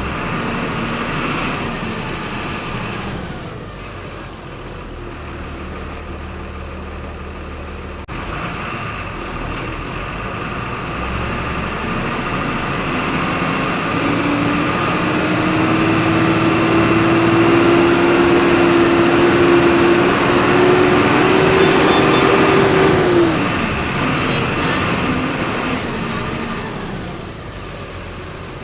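Volkswagen 17.230 EOD city bus engine heard from inside the bus, pulling away and accelerating: the engine note and a whine grow louder and climb slightly in pitch, then drop away suddenly about three-quarters of the way through as the driver eases off or shifts, leaving the engine running more quietly.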